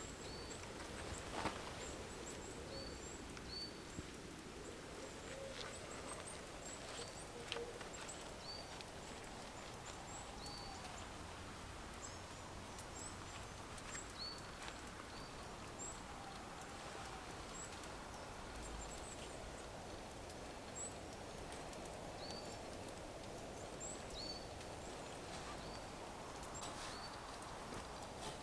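Small birds calling with short chirps, repeated every second or two, over quiet outdoor ambience, with a few faint knocks.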